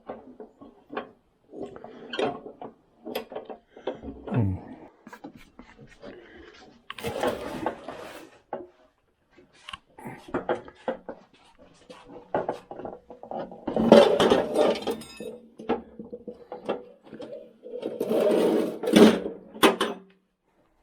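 Metal mower-deck parts being handled and fitted: scattered clanks and knocks, with three longer stretches of scraping and rubbing, the loudest near the middle and near the end.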